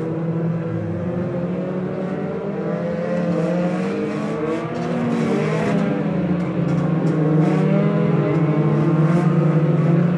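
Several banger racing cars' engines running hard on the track, their notes overlapping and rising and falling as they lap.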